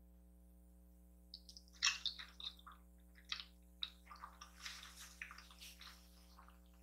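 Close-miked eating sounds: wet chewing and slurping of kimchi noodles. They come as a string of short, irregular smacks starting about a second and a half in.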